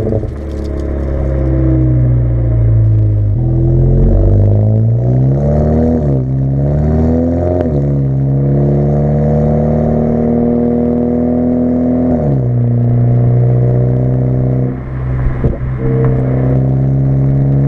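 2017 Audi A4 B9's 2.0-litre turbocharged four-cylinder running through an AWE Track Edition exhaust, pulling through a couple of upshifts with the pitch rising and then dropping at each shift. It then settles to a steady low-rev cruise with a constant drone, the growl at low revs that the owner calls almost drony.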